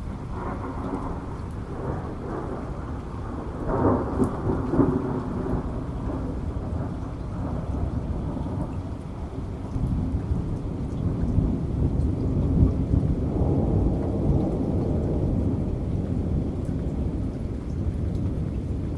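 Heavy rain with rolling thunder. A crackling thunder peal swells about four seconds in, and a long, low rumble rolls on later.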